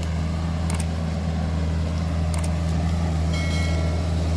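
Excavator diesel engine running steadily with a deep, even hum, with a couple of faint clicks.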